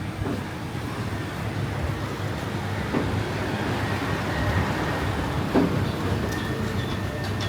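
Steady low rumble of street traffic, with a couple of short knocks, the louder one about two thirds of the way through.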